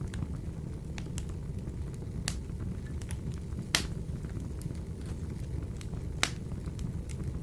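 Wood fire burning in a wood-burning stove: a steady low rumble of flame with scattered crackles. Two sharper, louder pops come a little under four seconds in and again about six seconds in.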